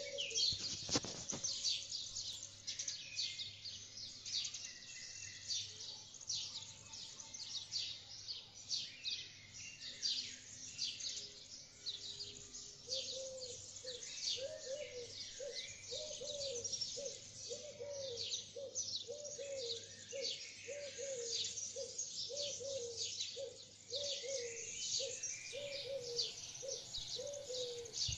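Birdsong: a dense, continuous high twittering of many rapid chirps, joined about halfway through by a lower, short arching call repeated a little more than once a second.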